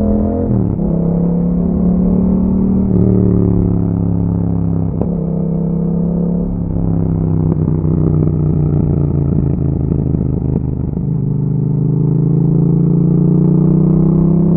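A 2021 Yamaha MT-07's parallel-twin engine running through an Akrapovic exhaust while being ridden. The engine note drops in the first second, shifts in pitch a few times through the middle, then climbs steadily over the last few seconds as the bike accelerates.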